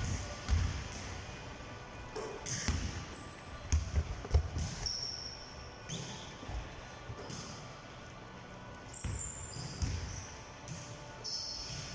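Basketballs bouncing on a gym floor in irregular thuds, mixed with short, high sneaker squeaks.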